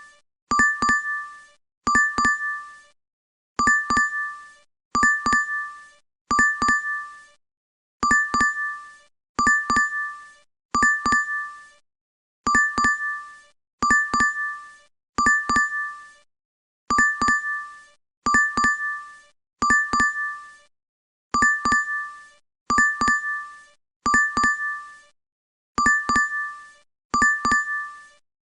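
DoorDash app notification sound: a bright double-strike ding, repeated over and over about every second and a half.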